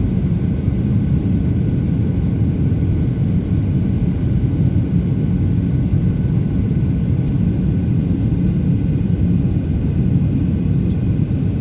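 Steady, even low rumble of an aircraft in flight, with no change in pitch or level.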